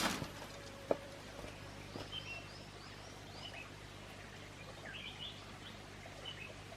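Small birds chirping faintly on and off over a steady background. A brief rush of noise comes right at the start, and a sharp knock follows about a second in.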